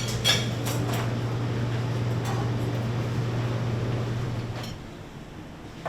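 A steady low mechanical hum, like a fan or appliance running, with a few light clicks and knocks about a second in; the hum stops suddenly near the end.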